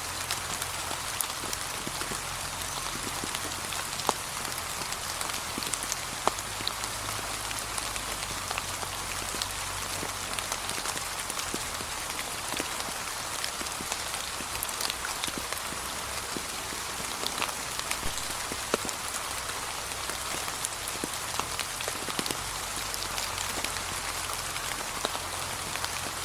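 Steady, gentle rain falling, an even hiss with separate drops ticking out clearly here and there, a few louder single drops among them.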